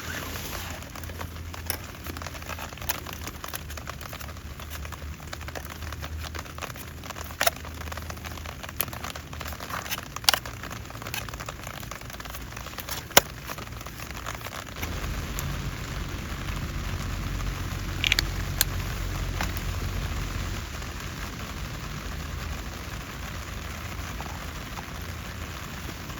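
Steady rain falling and pattering on a surface, with a few sharp clicks scattered through. A low rumble swells up for a few seconds in the middle.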